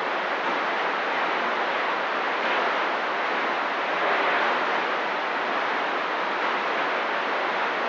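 CB radio receiver hissing with static on an open, empty channel: a steady, even rush with no voice.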